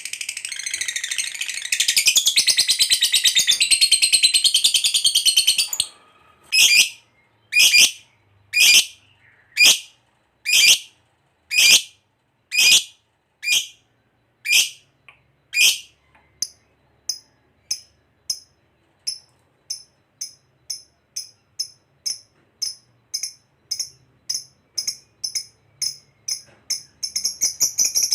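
Lovebird giving a long, rapid, continuous chattering trill ("ngekek"), then about ten loud separate shrill calls about one a second, then shorter quicker chirps about two a second. Near the end the long chattering trill starts again.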